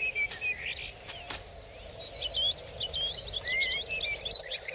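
Birds chirping: many short, quick, wavering high notes, coming thickest in a run about two seconds in, with a few faint clicks.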